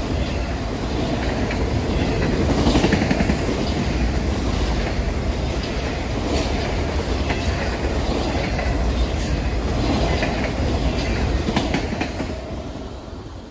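Freight train of autorack cars rolling past: a steady rumble of steel wheels on rail with scattered clacks, fading away as the end of the train passes near the end.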